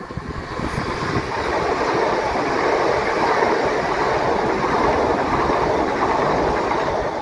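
A Southern electric multiple-unit passenger train passing close along a station platform: a rumble of wheels on rail that builds as it approaches, holds steady and loud while the carriages go by, and fades near the end as the last carriage passes.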